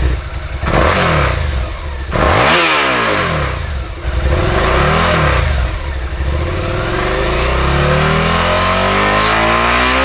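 2018 Suzuki SV650's 645 cc V-twin engine revved through its stock muffler. There are three short throttle blips, then a long, slow climb in revs.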